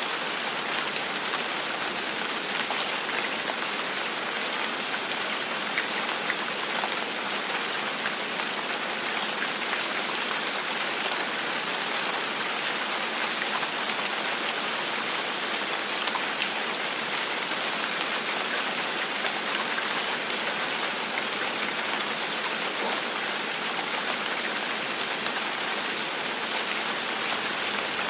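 Steady gentle rain falling, an even hiss of many fine drops with occasional individual drop ticks, unchanging in level.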